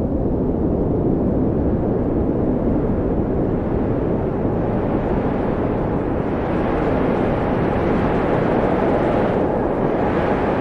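Wind blowing hard and steadily: a deep rushing noise with a faint whistle that slides in pitch. It turns brighter and hissier about halfway through.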